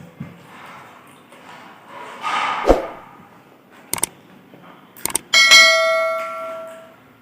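A few sharp clinks and knocks, then about five seconds in a metal object is struck and rings out with a clear bell-like tone that fades over about a second and a half.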